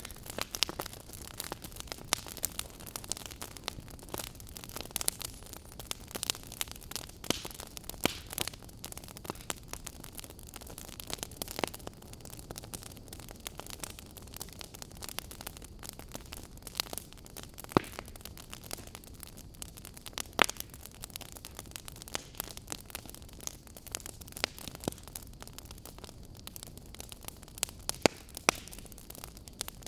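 Burning firewood crackling: irregular snaps and pops over a steady hiss, a few of them sharper than the rest.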